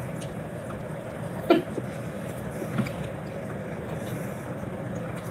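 A person chewing a mouthful of pita and pasta with her mouth closed, over a steady background hum. A short vocal sound comes about a second and a half in, and a fainter one near the three-second mark.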